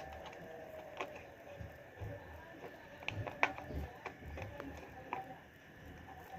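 Irregular clicks and light knocks of blender parts being handled and worked by hand, with no motor running.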